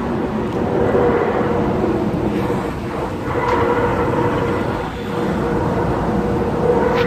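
A steady pitched drone with overtones over a dense rumbling background, swelling and easing a little, then cutting off suddenly near the end. It is an unexplained noise that has been going on for hours.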